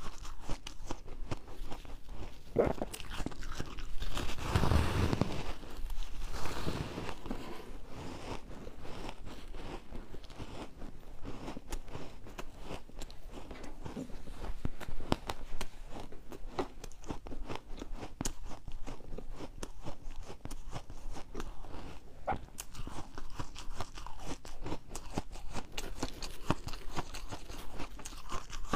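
Refrozen ice being bitten and chewed: a continuous run of crisp crunches and cracks, with a louder, denser stretch of crunching about four to seven seconds in.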